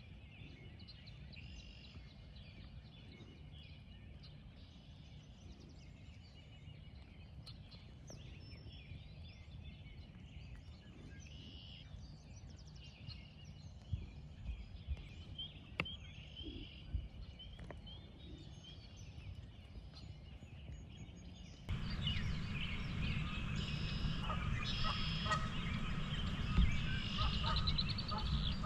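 Spring woodland birdsong with wild turkeys gobbling now and then. About three-quarters of the way through, the sound jumps to a louder, rumbling background with more birds calling.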